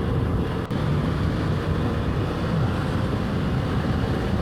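Motorcycle engine running under way, with wind rushing over the microphone and a brief click about two-thirds of a second in.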